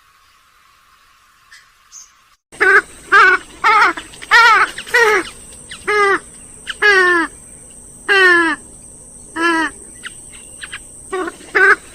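Grey-headed swamphen calling: after a quiet start, a run of about a dozen loud calls begins about two and a half seconds in, each one falling in pitch, some in quick pairs.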